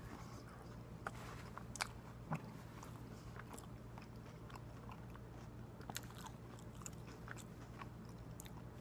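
Close-miked chewing of a mouthful of grilled tuna melt sandwich, with small wet mouth clicks and smacks scattered through it, over a faint steady hum.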